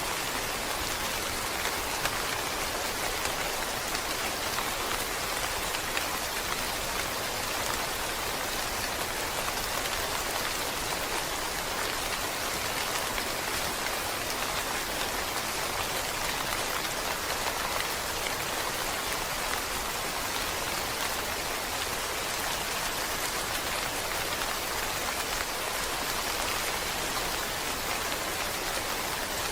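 Steady rain falling: an even hiss of many drops that holds unchanged throughout.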